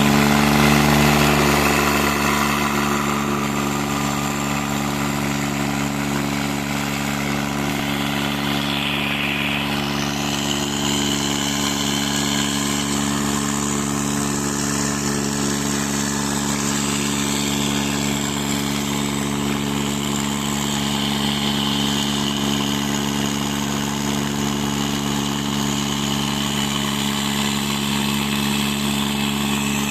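Diesel tractor engines running steadily.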